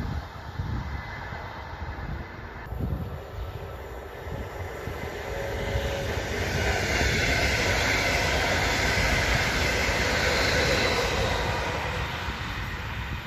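DB Class 146 electric locomotive and its double-deck regional coaches passing on the track: a rolling, rushing noise that swells about halfway through, holds at its loudest for a few seconds, then eases off near the end.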